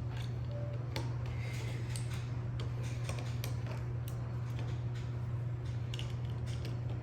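Plastic building bricks clicking as they are handled and pressed together while a loose brick is refitted: scattered light clicks, several seconds apart, over a steady low hum.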